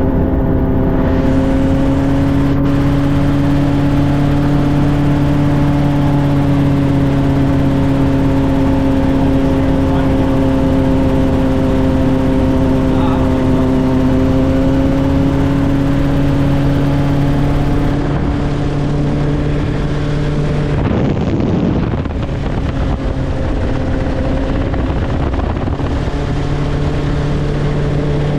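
Helicopter in flight, heard from aboard: a loud, steady drone of rotor and engine with a constant hum of several even tones. The sound dips and wavers briefly about three quarters of the way through, then settles back.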